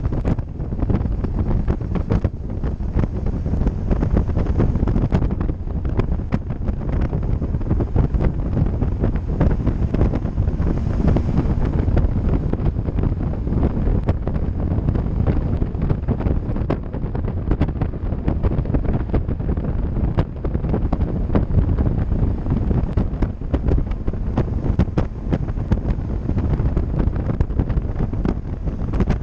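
Wind buffeting the microphone as the rider moves, a steady low rushing with small gusty flutters.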